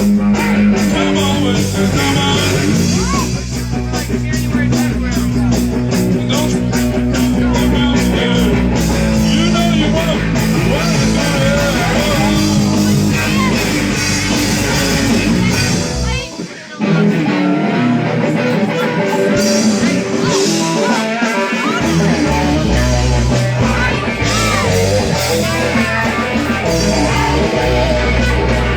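A rock band playing, with electric guitar, bass and regular drum strikes. The bass and low end drop out for about a second past the midpoint, then the full band comes back in.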